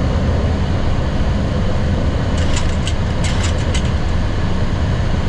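Steady cockpit noise of a Boeing 737-800 in its climb after takeoff: engine and airflow rumble, loudest in the low range. A quick run of about six light clicks comes about two and a half to four seconds in.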